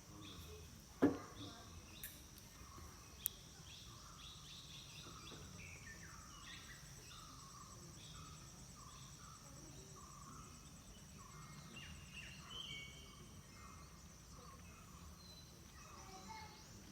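Rural outdoor ambience: a steady high-pitched insect drone with many short, repeated bird calls. A brief, louder sound falling in pitch comes about a second in.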